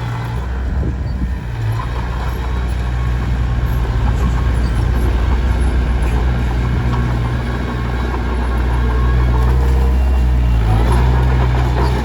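Small Komatsu D21P bulldozer's diesel engine running steadily, a low drone that stays even with small swells in level.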